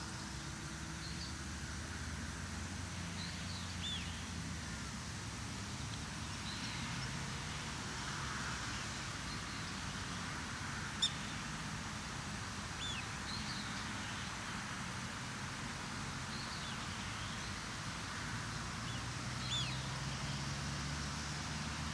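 Outdoor lakeside ambience: a steady low rumble, with short, high, falling chirps every second or two, and a single sharp click about eleven seconds in.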